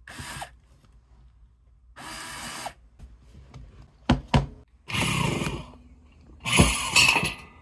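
Handheld power drill running in four short bursts of under a second each, with two sharp knocks about four seconds in.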